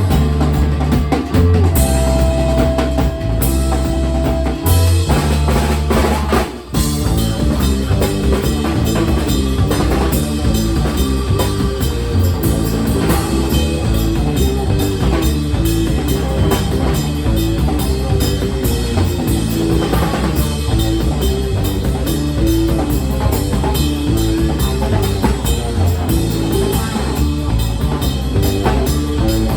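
A band playing rock music with a drum kit, bass drum and guitar. The music drops out for a moment about six seconds in, then carries on.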